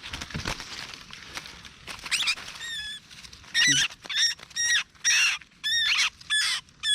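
Orange-headed thrush caught on a trap's hook giving loud, shrill distress squeals, about two a second, starting about three and a half seconds in. Before that, faint rustling in the undergrowth.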